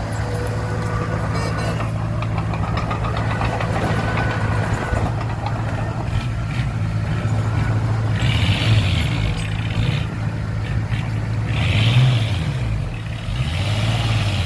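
Heavy diesel engine running steadily at a low, even pitch; its pitch rises and falls a few times in the second half, with short bursts of hissing noise about eight and twelve seconds in.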